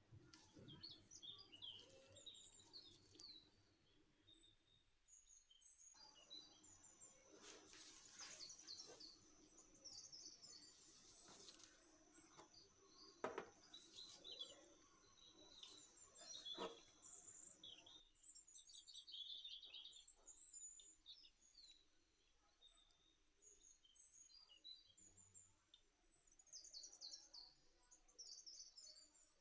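Faint birds chirping: many short, high calls scattered throughout, with a couple of soft taps around the middle.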